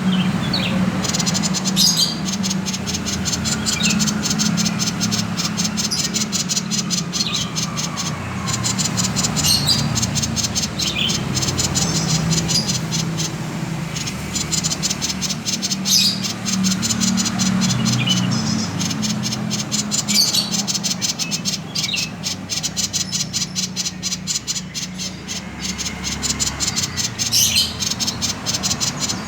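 Common iora (cipoh, 'sirtu') giving its 'konslet' call: a dense, very fast high ticking chatter with a sharp high note every few seconds, over a steady low hum.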